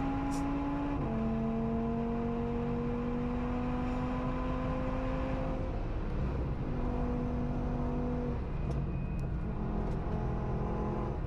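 Audi S1's swapped-in RS3 2.5-litre turbocharged five-cylinder engine under acceleration, heard onboard on track. Its pitch climbs slowly through a gear, drops sharply at an upshift about a second in, breaks off briefly around six seconds, and drops again near the end.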